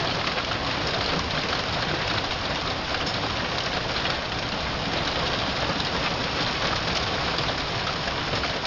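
Hailstorm: hailstones pelting down hard, a dense, steady clatter of countless small impacts.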